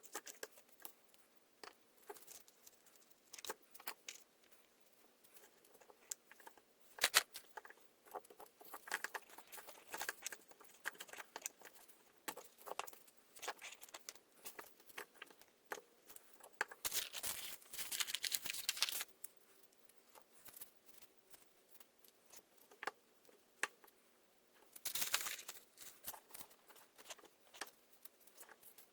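Hands handling small parts and tools during chainsaw carburetor work: scattered light clicks and taps, with two longer rustling bursts, one past halfway and one near the end.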